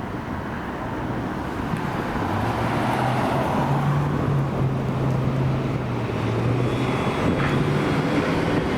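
A fire apparatus's diesel engine running steadily as it drives along the street, with tyre and traffic noise. The sound grows louder over the first few seconds.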